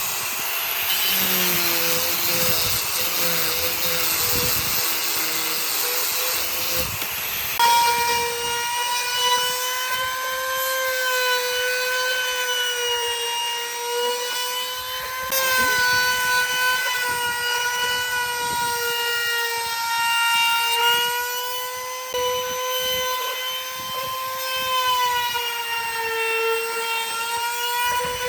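A high-speed electric power tool running on wood. For the first seven seconds or so it gives a loud hiss, then a steady high-pitched motor whine that sags and rises slightly as the load changes.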